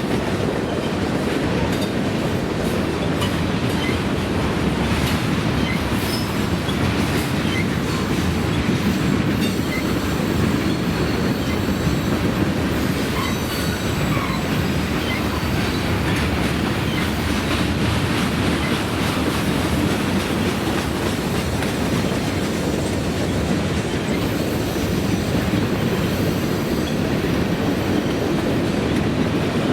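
Freight train cars rolling steadily past: a continuous rumble of wheels on rail with scattered clicks and a faint high wheel squeal.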